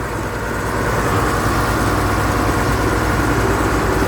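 Tractor diesel engines running hard under load as the two tractors pull against each other, a steady low drone with an even pulse that grows slightly louder.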